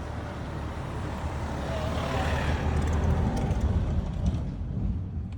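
A motor vehicle passing close by, its engine and tyre noise swelling to a peak about three to four seconds in and then fading away.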